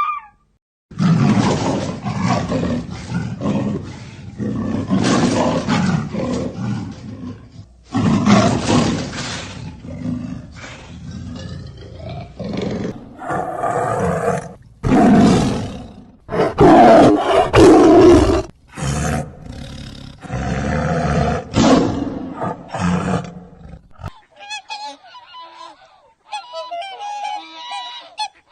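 A large animal roaring in repeated long bouts. After a short break near the end, geese honk.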